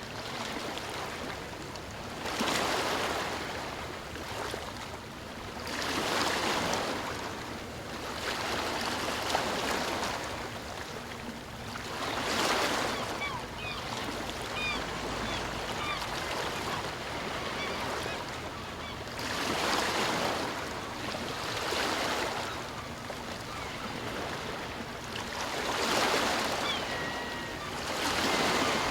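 Ocean surf: waves breaking and washing in, swelling and ebbing every three to four seconds. Faint short bird calls come through about halfway and again near the end.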